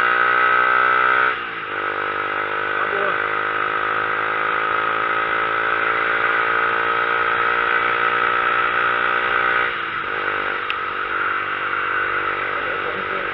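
Motorcycle engine pulling up a steep climb, its pitch rising steadily through each gear and dropping at gear changes about a second and a half in and again near ten seconds, over a steady rush of wind noise.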